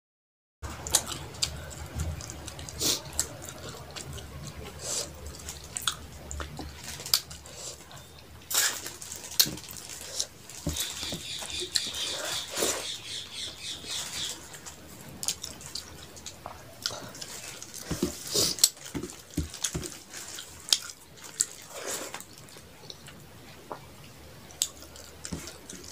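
Close-miked eating sounds: wet chewing, lip smacks and mouth clicks as rice and fish curry are eaten by hand, coming irregularly with sharp clicks throughout.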